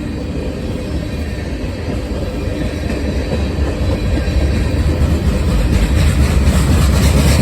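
Norfolk Southern mixed freight train's cars rolling past on the rails, a steady low noise of wheels and cars that grows louder near the end.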